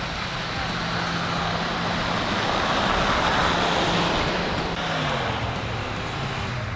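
A motor vehicle going by: engine and tyre noise swell to a peak about three seconds in and then ease off, with the engine note dropping in pitch near the end.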